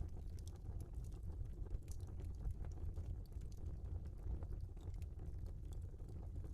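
Log fire crackling: irregular small pops and snaps over a steady low rumble of burning.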